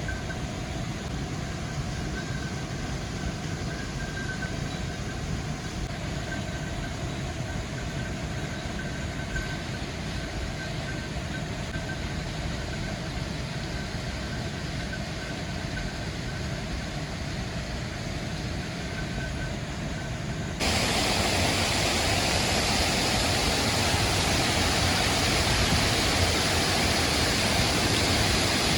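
Rushing water of a mountain waterfall, a steady, even noise with a low rumble, which turns abruptly louder and brighter about two-thirds of the way through.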